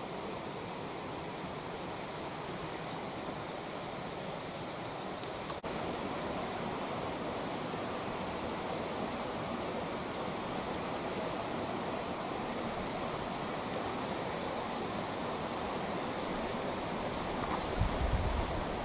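Creek water running steadily over its bed, an even rushing sound. A brief low rumble comes near the end.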